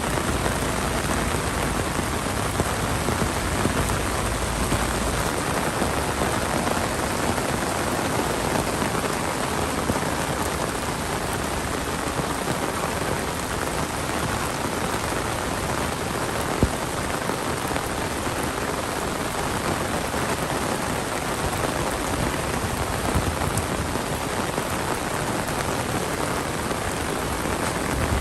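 Heavy monsoon rain falling steadily: a dense, even hiss of drops on surfaces, with one short sharp tap a little past halfway.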